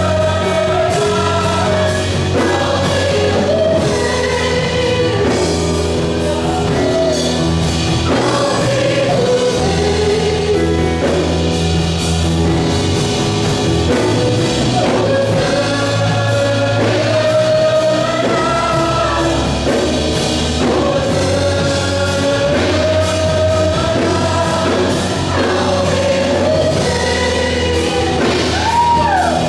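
Christian gospel band playing with voices singing long held notes over a steady bass line.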